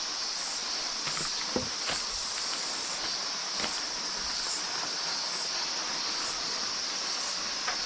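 A steady high-pitched drone of insects, pulsing faintly about once a second, with a few crunching footsteps on dry leaf litter.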